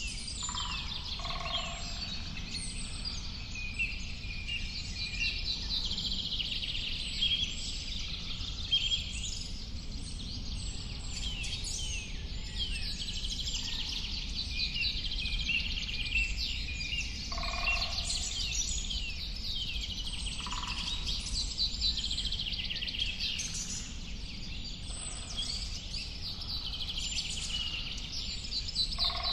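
A chorus of many songbirds chirping and trilling without pause, with a lower call breaking in a few times, over a steady low background rumble.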